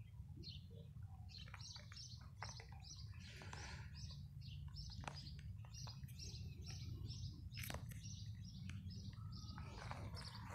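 Small birds chirping, a steady run of short high notes at about three a second, over a low steady rumble, with a few sharp clicks.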